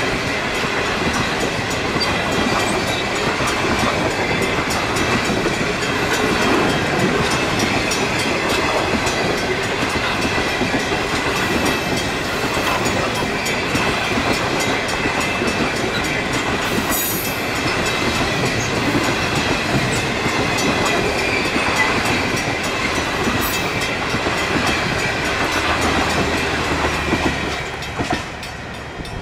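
Stainless-steel passenger carriages of a long-distance train rolling past close by, wheels running over the rails with a steady clickety-clack. Near the end the sound drops away as the train recedes.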